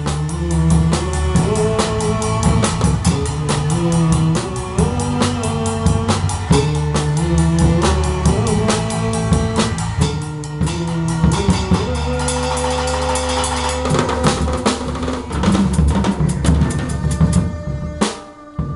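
A band playing an instrumental passage of a worship song: a drum kit keeps a steady beat of kick and snare under bass and a moving melody line. Shortly before the end the music drops away and a single sharp hit rings out.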